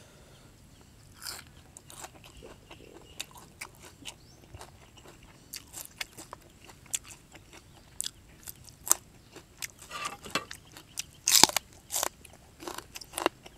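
Close-up chewing of a mouthful of raw beef wrapped in fresh herbs and dipped in sauce, with many short crisp crunches. The loudest crunches come near the end.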